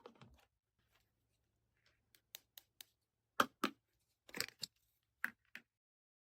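About ten sharp, irregular clicks and taps of plastic Play-Doh toy tools being handled and pressed together, the loudest about halfway through.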